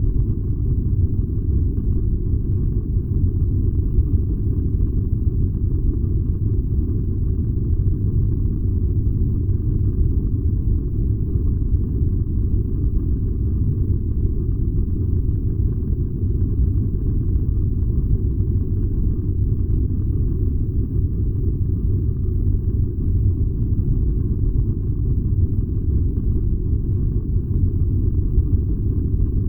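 Furnace burning with a steady low rumble that stays even throughout.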